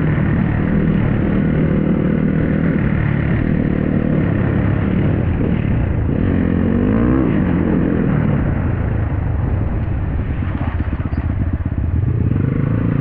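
Dirt bike engine running while riding, the revs rising and then falling briefly about seven seconds in.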